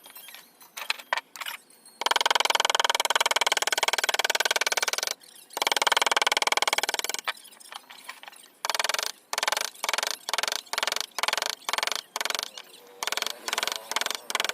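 A tool scraping against shisham wood during carving: two longer continuous stretches, then short repeated strokes about twice a second.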